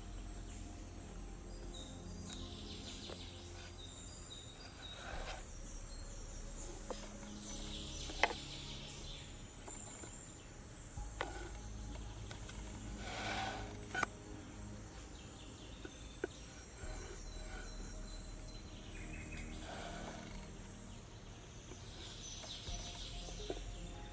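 Outdoor background sound: a steady low rumble and a faint high hiss, with short rustles and a few sharp clicks, the loudest about 8, 11 and 14 seconds in.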